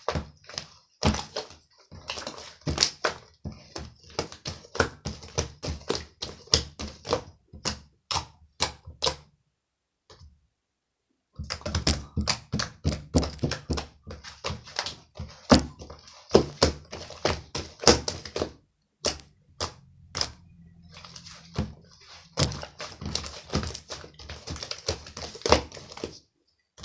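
Rapid, irregular tapping and knocking, many sharp clicks a second, with a pause of about two seconds near the middle.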